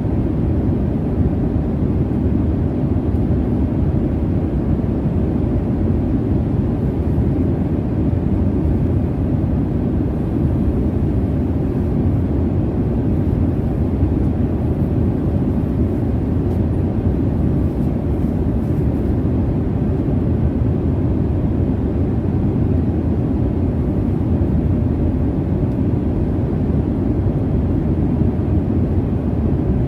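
Jet airliner cabin noise: a steady, even low rumble that neither rises nor falls.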